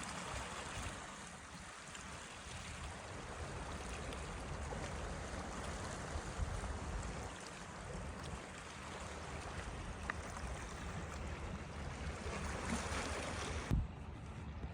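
Steady rushing water noise that cuts off abruptly near the end.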